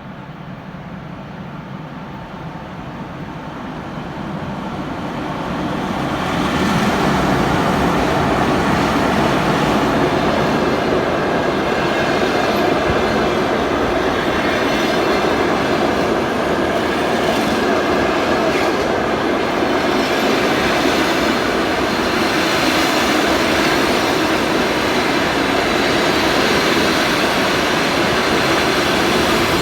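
Passenger train hauled by a ChS7 electric locomotive arriving. The sound grows louder over the first six seconds as the train approaches, then holds as a steady loud rolling rumble of wheels on rail as the train passes.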